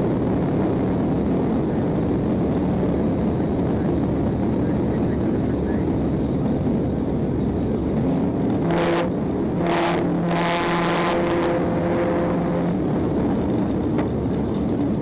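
Patrol car at pursuit speed: a steady roar of engine, tyres and wind. From about halfway in, a steady pitched note with several overtones joins for a few seconds.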